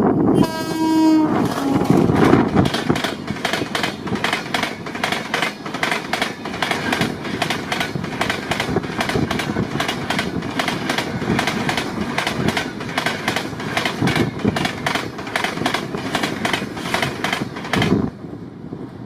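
Electric train passing at speed: a short horn blast, then a fast, regular clatter of wheels over the rail joints with a rumble underneath, which stops abruptly near the end.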